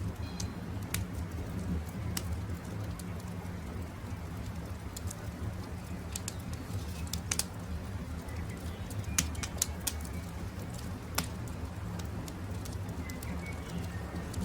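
Wood campfire crackling, with sharp scattered pops over a steady low rumble. Faint short bird calls come and go in the background.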